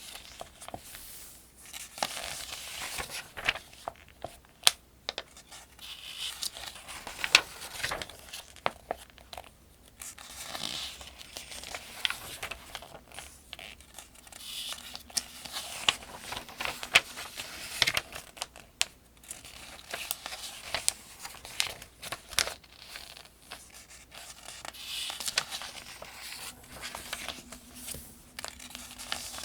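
Paper pages of a Farmers' Almanac being turned one after another, each turn a papery swish and rustle with sharp flicks of the page, at a steady, rhythmic pace.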